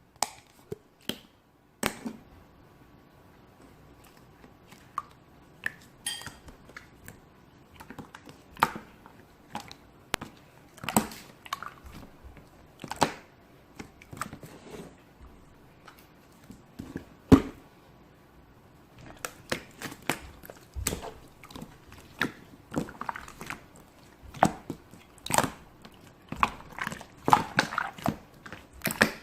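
Slime being squished, poked and folded by hand, giving irregular sticky clicks and small pops, scattered at first and coming thick and fast in the last third.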